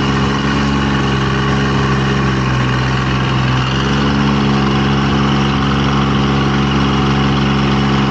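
An engine running steadily at an even, low idle-like speed close by, dropping away right at the end.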